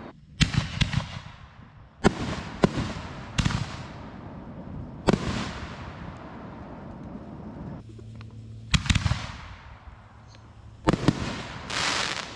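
Reloadable firework mortar shells going off: a string of sharp bangs, about eight spread unevenly over the span, most followed by a short decaying crackle, with a denser crackling hiss near the end.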